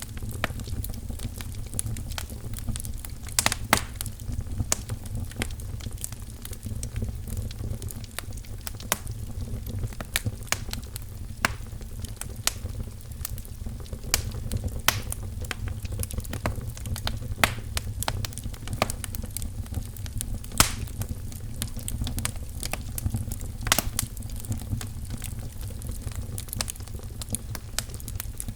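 Firewood crackling in a fireplace: irregular sharp pops and snaps, a few of them loud, over a steady low rumble.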